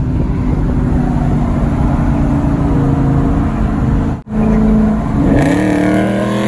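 Straight-piped Dodge Challenger's engine running with a steady exhaust drone, the sound cutting out for an instant just past four seconds, then revving up in a rising pitch near the end as the car accelerates.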